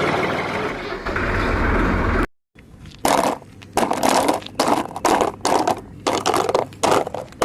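A steady rushing noise that cuts off abruptly a little over two seconds in, then a run of short, irregular crunching scrapes, about two a second, from a toy construction vehicle working through soil and stones.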